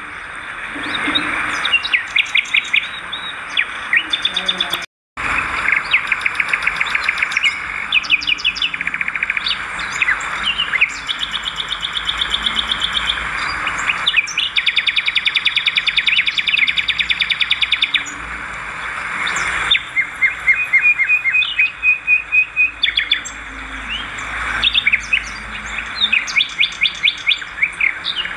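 Swiftlets twittering in rapid, repeated chirp trills, with a brief dropout about five seconds in and several abrupt changes where the recording is cut.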